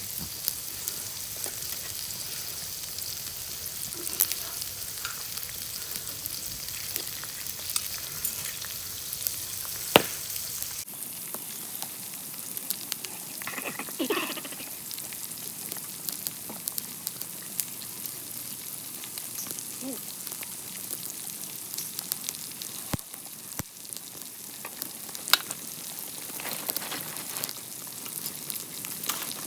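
Food sizzling and frying in hot oil in an iron pan over a camp stove, a steady hiss dotted with small crackles and pops.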